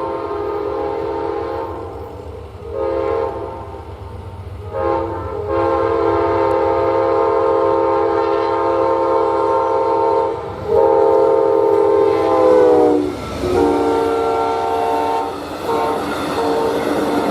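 Amtrak passenger locomotive's air horn sounding a series of blasts: two short ones, then long held ones. Its chord drops in pitch about 13 seconds in as the locomotive passes, over the low rumble of the train.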